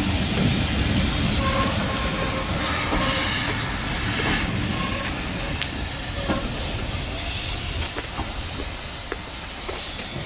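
Passenger coaches of a heritage steam train rolling slowly along the platform, their wheels squealing and clicking over the rail joints. The rumble eases as the train slows, and a thin high squeal sets in about halfway.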